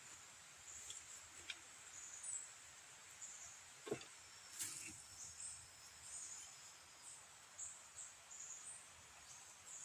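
Quiet outdoor ambience: a steady high chirring, like insects, with a few faint clicks and one sharper click about four seconds in.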